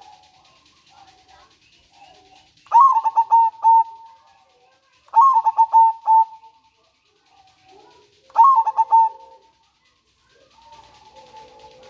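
A local zebra dove (perkutut) singing: three calls a few seconds apart, each a quick stuttering run of cooing notes that trails off over about a second.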